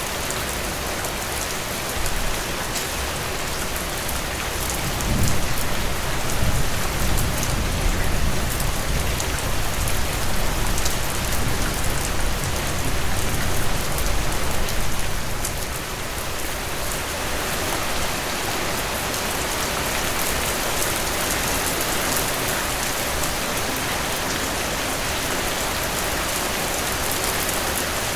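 Heavy rain pouring down, a dense steady hiss of drops on surfaces. A low rumble swells about five seconds in and fades away after about ten seconds.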